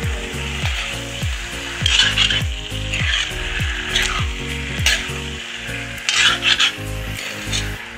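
Chicken pieces sizzling in oil in a wok as a metal spoon stirs and tosses them, with louder scrapes of the spoon against the pan several times. A background music beat runs underneath.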